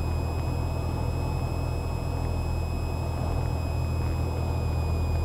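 Cessna 172R's four-cylinder Lycoming engine and propeller droning steadily in flight, a constant low hum with faint thin high whines above it.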